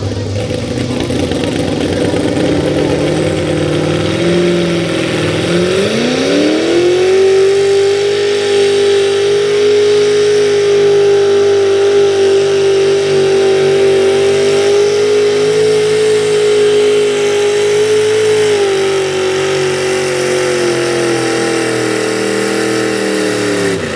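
Super stock two-wheel-drive pulling truck's engine under full throttle while hauling a weight-transfer sled. It climbs steeply in revs about six seconds in, holds high and steady for most of the run, dips slightly later on, then drops off sharply near the end as the throttle comes off.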